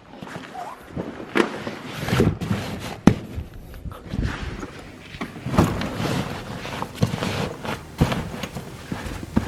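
Camera gear being packed into a car's small boot: scattered knocks and clunks with rustling handling noise between them.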